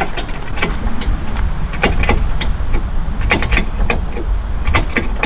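A car engine running steadily at low revs, with irregular sharp clicks and knocks over it as the strap pulls on the crumpled bodywork.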